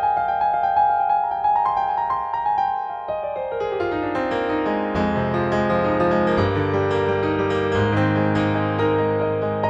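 Piano-toned keyboard music from an Arturia V Collection 9 software instrument: a quick repeating high figure, a run falling in pitch, then held low chords with a bass line.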